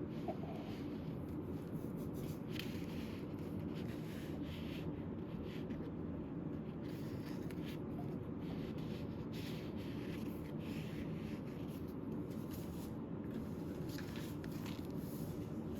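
Paper and card stock being handled and turned, soft irregular rustles and brushes, over a steady low room hum.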